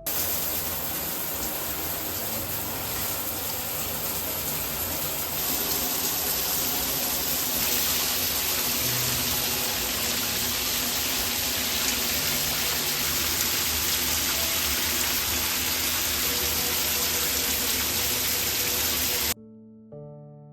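Water running in a steady stream, cutting off abruptly near the end, with soft background music underneath.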